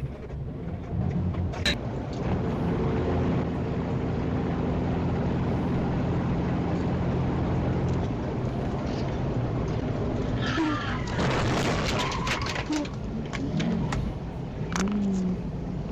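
Dashcam recording of a vehicle engine running steadily, then a run of sharp knocks and clattering in the last few seconds.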